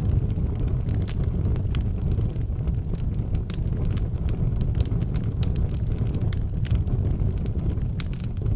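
Wood fire burning in an outdoor fireplace: a steady low rumble of the flames with frequent small, irregular crackles and pops.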